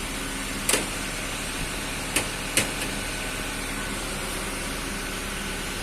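A steady mechanical hum with three sharp clicks, one a little under a second in and two close together about two seconds in.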